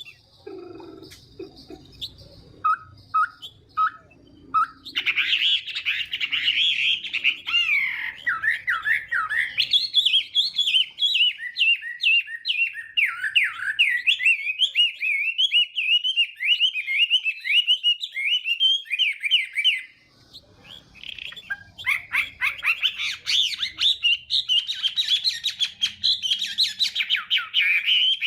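Chinese hwamei (laughingthrush) singing a long, rapid song of varied sliding whistled notes, after a few short spaced notes at the start. The song breaks off briefly about two-thirds of the way through, then resumes.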